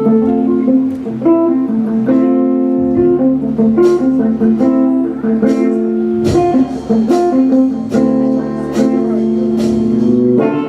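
Guitar strumming sustained chords in a steady rhythm, the instrumental introduction to a worship song.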